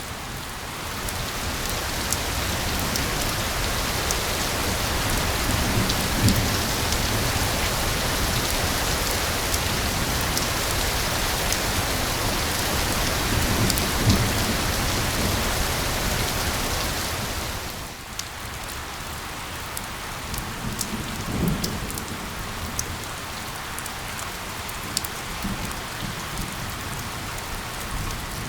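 Steady rain falling on a surface, heavy at first, then easing about two-thirds of the way through to lighter rain with distinct drops spattering. A few soft low rumbles of distant thunder sound under it.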